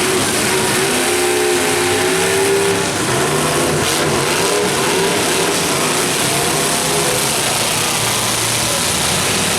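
Demolition derby trucks' engines running and revving, several at once, with pitch rising and falling over a steady din.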